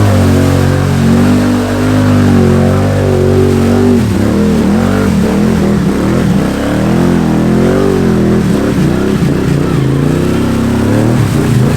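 Can-Am Outlander 850 XMR's V-twin running loud through an MBRP performance exhaust, holding fairly steady at first, then revved up and down over and over from about four seconds in as the ATV works through deep mud.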